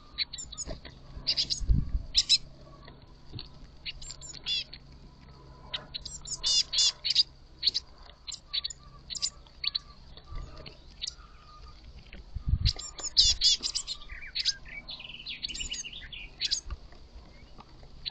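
Young blue tits calling at a feeder: many short, high chirps and quick trills, coming in clusters throughout. A couple of low thumps are heard about two seconds in and again around twelve seconds in.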